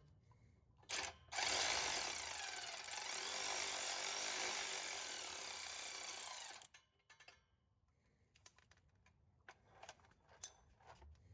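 A power tool, such as an impact wrench or power ratchet, gives a brief blip and then runs steadily for about five seconds, backing out an exhaust flange bolt on the midpipe. It stops suddenly, and a few light clicks of handling the parts follow.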